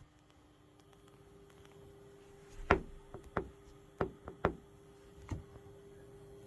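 About six sharp knocks and clicks over two and a half seconds, the first the loudest, over a faint steady electrical hum.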